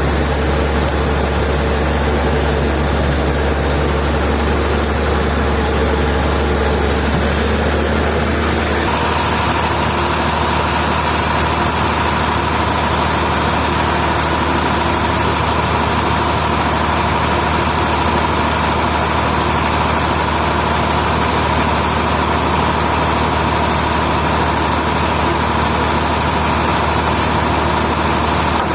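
Heavy sawmill machinery running steadily with a low engine hum; about nine seconds in, a steady high whine joins it and holds.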